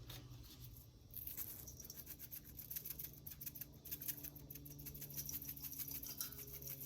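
Roasted garlic and herb seasoning being shaken from a shaker bottle onto a raw whole chicken: a fast, faint rattling patter of granules that starts about a second in, over a low steady hum.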